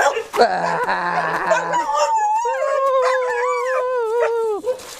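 A dog howling: long, drawn-out howls that hold a steady pitch and then tail off, the second joined by higher, wavering howls. A lower, rougher call comes in between about half a second and two seconds in.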